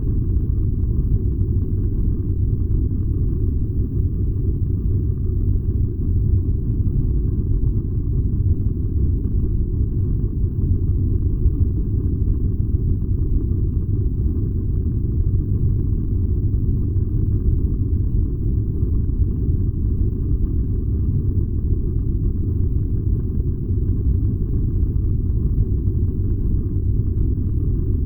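Furnace running with a steady, low, deep rumble that does not change.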